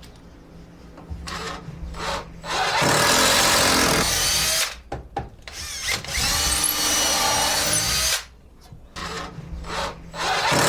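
Power drill driving screws into wood in two runs of about two seconds each, with a short pause between and lighter knocks and handling around them.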